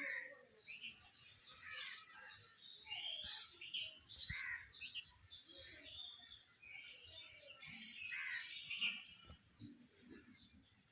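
Birds chirping and calling: many short, scattered chirps and whistles overlapping one another, over a steady high-pitched hiss.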